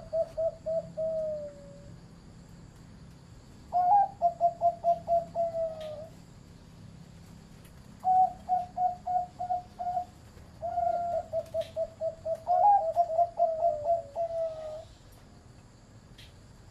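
Zebra dove cooing in four quick runs of short repeated coo notes, each run lasting two to four seconds with short pauses between. The voice is of the medium-pitch class that Thai dove fanciers grade.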